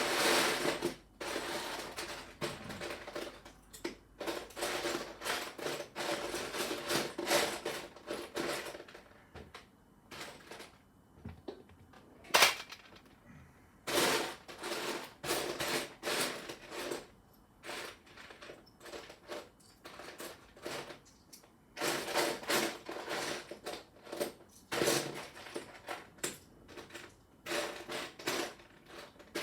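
Loose plastic Lego pieces rattling and clicking under hand in repeated bursts, with one sharp, louder click about twelve seconds in.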